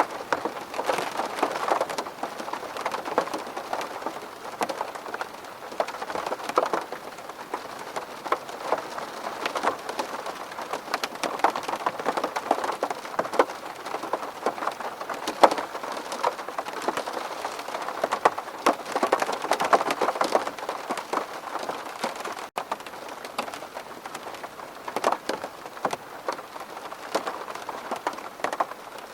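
Steady rain on a window pane: an even wash of rain with many separate drop hits on the glass. A momentary dropout about two-thirds of the way through.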